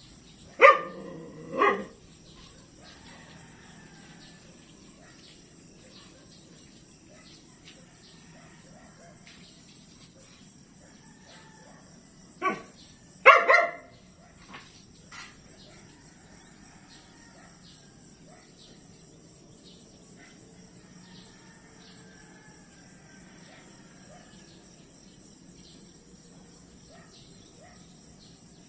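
A dog barking: two barks about a second apart near the start, then another short run of barks around the middle. Under it runs the steady high chirring of crickets.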